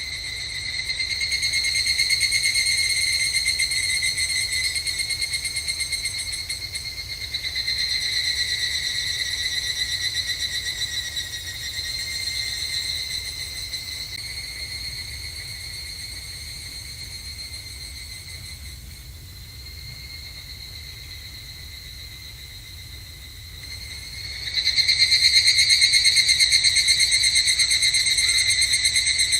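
Evening cicadas (higurashi) singing their ringing, pulsing calls in overlapping bouts. One call swells about two seconds in and another about seven seconds in. The chorus then fades to a softer background, and a loud new call starts near the end.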